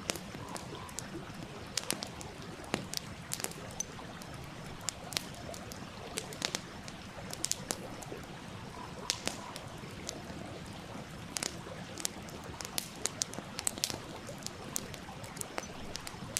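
Wood fire crackling with frequent irregular sharp pops over the steady murmur of a flowing stream.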